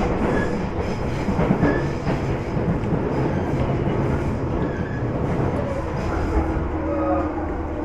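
Commuter train running between stations, heard from inside the carriage as a steady rumble of wheels and motors.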